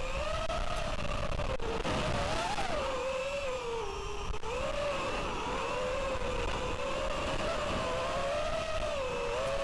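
FPV racing quadcopter's brushless motors and propellers whining, the pitch wandering up and down as the throttle changes, with a brief rise about two and a half seconds in and a dip about four seconds in. Underneath is a rough rumble of strong wind on the microphone.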